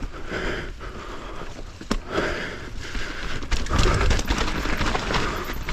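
Mountain bike rolling over rough trail, with tyre noise and a steady rattle of clicks and knocks from the bike. One sharp click about two seconds in, and a heavier rumble from about three and a half seconds in as the terrain gets rougher.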